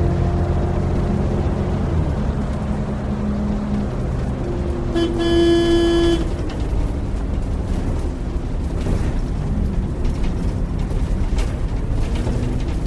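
Bus engine running with a steady low rumble, and one horn blast about five seconds in that lasts about a second.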